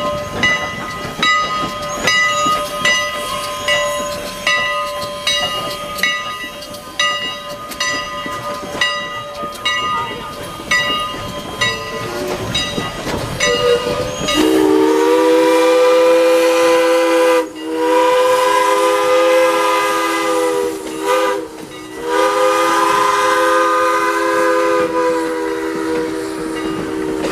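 Steam locomotive's bell ringing about once a second, then its chime steam whistle sounding a chord in the grade-crossing pattern: long, long, short, long.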